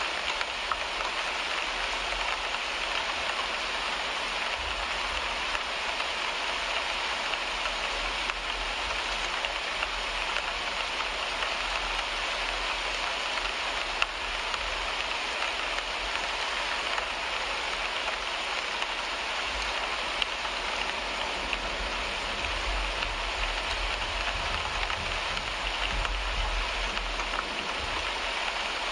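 Steady rain falling on a car windshield, heard from inside the car, an even pattering hiss with a few louder single drop ticks. A low rumble swells in the second half and fades near the end.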